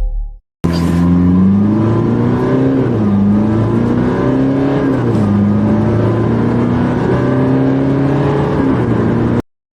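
A car engine accelerating hard at full throttle from a standstill, climbing in pitch and dropping back at each automatic upshift, three times, before cutting off suddenly.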